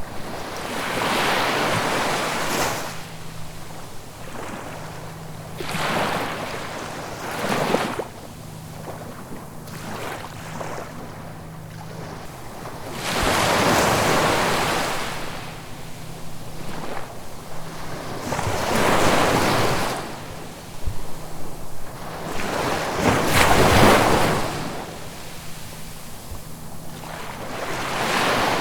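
Ocean waves breaking and washing up on the shore, each surge swelling and then fading, several seconds apart, the biggest ones about halfway through and near the end. A faint steady low hum sits underneath at times.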